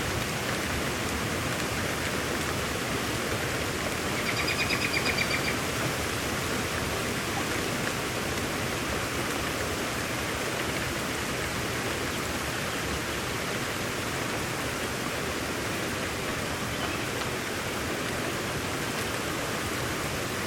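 Steady rain falling, an even hiss with no change. About four seconds in, a high rapid trill rises above it for a second and a half.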